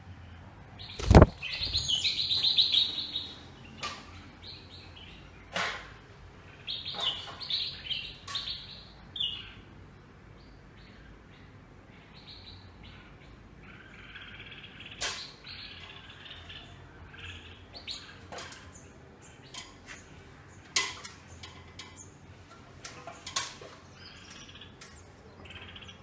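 Small birds chirping in short repeated bursts of high calls, with a loud thump about a second in.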